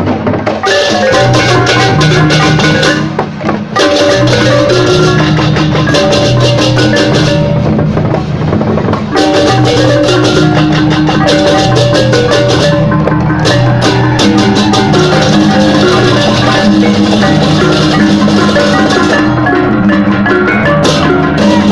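Balinese gamelan, of the baleganjur kind that accompanies ogoh-ogoh processions, playing loudly and continuously: struck bronze gongs and metallophones over drums with a dense clashing of hand cymbals.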